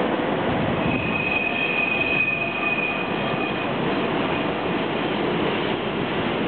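Two DB class 151 electric locomotives running in multiple past at the head of an empty hopper train: a steady rumble of wheels and running gear on the rails, with a high thin squeal over it from about a second in until nearly four seconds in.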